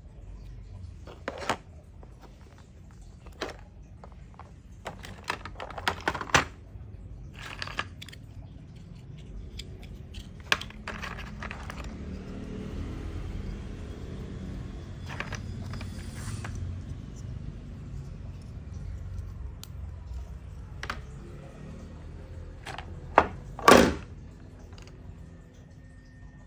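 Scattered clicks and knocks of small hard pieces being handled, coming irregularly over a low steady background hum, with two louder sharp knocks close together near the end.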